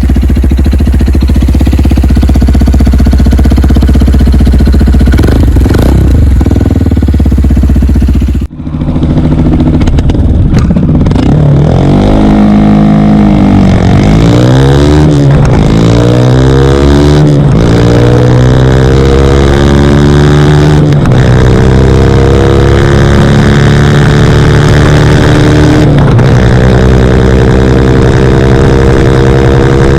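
CFMoto Papio motorcycle engine running through a Yoshimura RS-9 exhaust. A steady drone at first, a brief drop-out about eight seconds in, then the exhaust note rises and falls repeatedly as the throttle is worked, before holding and slowly climbing in pitch near the end.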